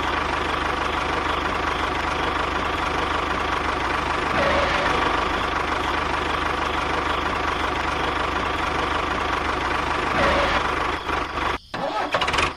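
An engine or motor running steadily with a rapid, even chugging. It swells briefly twice and breaks up near the end.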